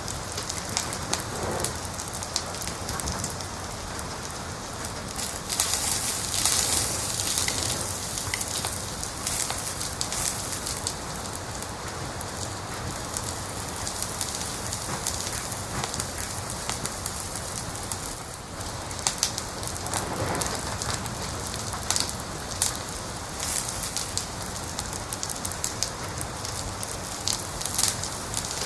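Wood fire crackling steadily: a constant hiss with frequent sharp pops and snaps, a few louder ones here and there.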